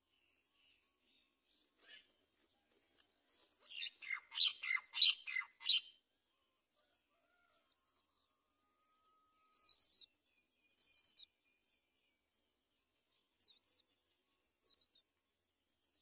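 Bird chirps: a quick run of about seven sharp high chirps about four seconds in, then two short falling calls a few seconds later and a few fainter ones near the end.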